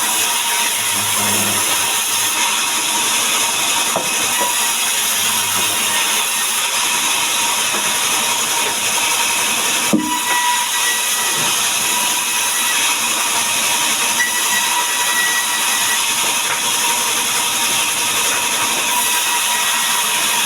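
Power saw cutting wood into boards: a loud, steady rush of noise with a faint whine running under it, and one sharp tick about ten seconds in.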